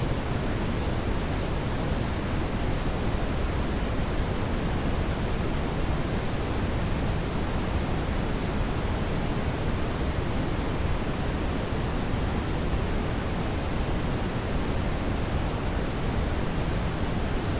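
Steady brown noise: an even, unchanging rushing hiss weighted toward the low end, with no other events.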